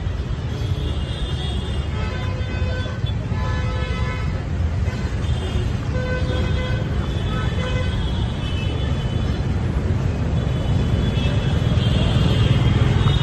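Busy city street traffic: a steady rumble of vehicles with scattered short horn toots.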